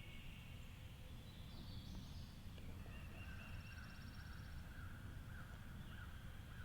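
Faint woodland ambience with several small birds calling. There are thin high notes, a short rapid trill about three seconds in, and a run of repeated chirps over a low rumble.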